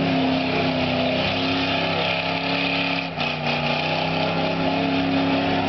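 A car engine held at high, steady revs over a dense hiss. The revs dip briefly and settle a little lower about three seconds in.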